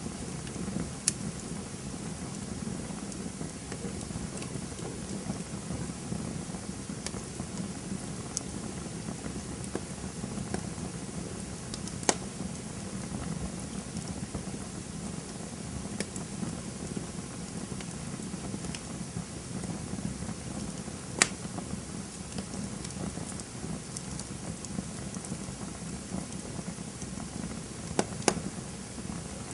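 Campfire burning: a steady low rush of flames with scattered sharp crackles and pops, the loudest pops about a second in, around twelve and twenty-one seconds, and two close together near the end.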